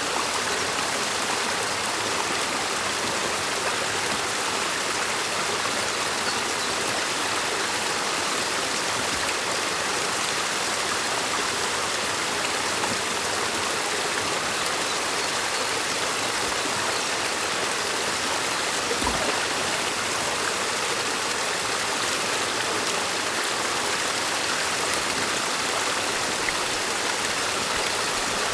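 Stream water rushing steadily, with one soft low thump about two-thirds of the way through.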